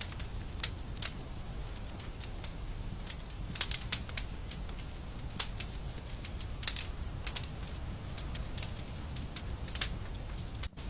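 Wood fire in a fireplace crackling, with irregular sharp pops over a steady low rumble of the flames; the sound drops out for an instant near the end.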